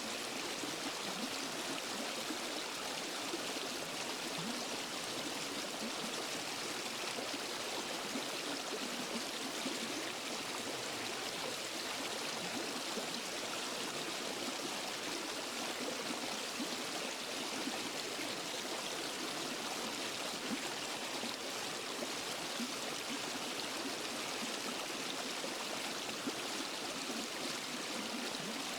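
Waterfall and forest stream: water rushing and splashing in a steady, unbroken hiss.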